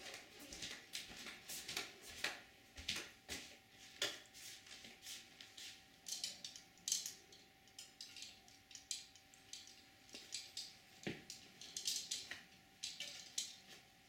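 Small birds at backyard feeders giving quick, high chips and chirps, several a second and irregularly spaced.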